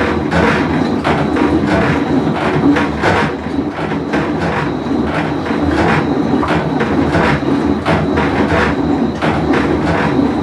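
Whirlpool Cabrio top-load washing machine running mid-cycle: a steady rumble with a rhythmic clatter a few times a second, the noise of a failing tub bearing.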